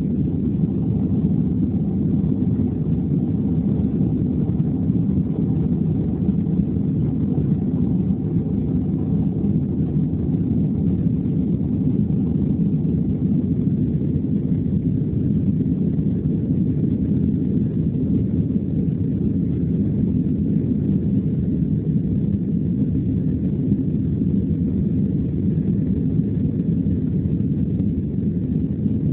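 Steady engine and airflow noise heard inside the cabin of a Boeing 767-300 at takeoff power, deep and unbroken. A faint thin whine fades out within the first ten seconds or so.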